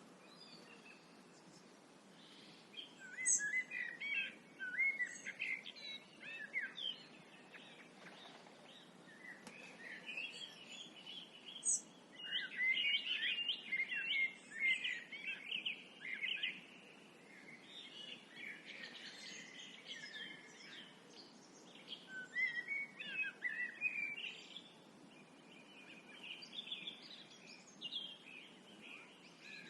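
Songbirds singing at dusk: phrases of quick chirps and warbling notes that come in bursts with short pauses between, over a steady low background noise.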